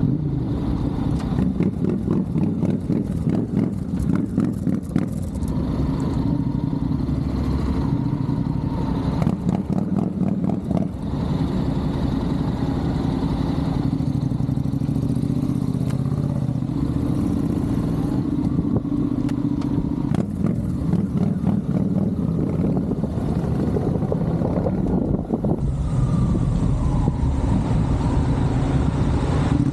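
Motorcycle engine running steadily while riding, with bursts of rapid clicks in roughly the first ten seconds.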